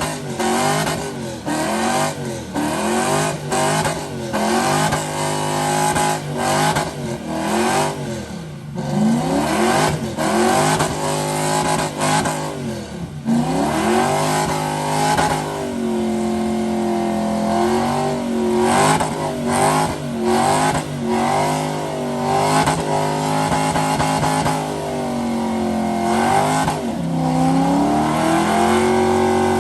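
A high-performance engine revving hard over and over during a burnout, its pitch climbing and dropping every second or two, with sharp cracks and pops between the revs.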